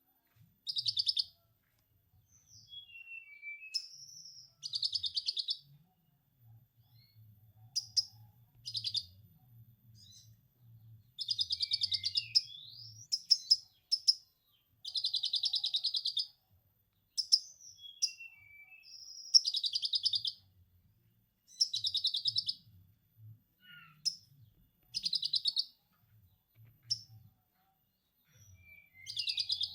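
Konin songbird singing a repeated rapid chattering trill, copying a lovebird's 'ngekek', in bursts of one to two seconds, with short whistled chirps and gliding notes in between.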